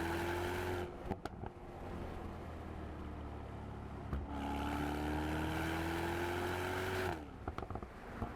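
Mercedes-AMG SL 63's 4-litre twin-turbo V8 accelerating twice, its pitch rising steadily each time. Each run cuts off suddenly and is followed by a few sharp exhaust pops and crackles.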